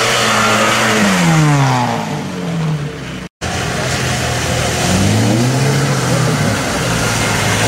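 Lada Niva 4x4s driving through a muddy creek crossing: an engine revving with its note falling as the car splashes past, with water and mud spraying. After a brief dropout about a third of the way through, another Niva's engine revs up and holds as it ploughs through the water.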